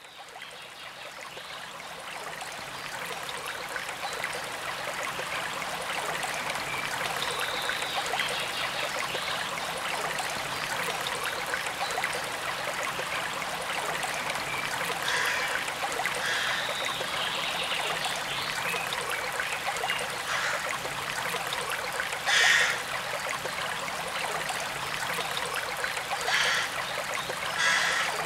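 Forest stream running, a steady rush and trickle of water that fades in at the start. A few brief, louder sounds rise above it in the second half.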